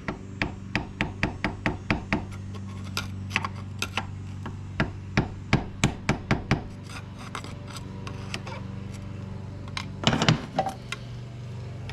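Series of sharp taps on the metal starter motor housing of a Honda Urban Express scooter, knocking at its superglued field magnets to work them loose. The taps come in quick runs, about four a second at first, then irregular, with a last short burst near the end.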